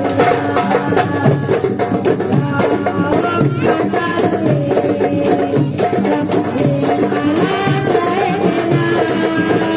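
Marawis ensemble playing: hand drums and tambourine beating a busy, steady rhythm under group singing of a sholawat melody.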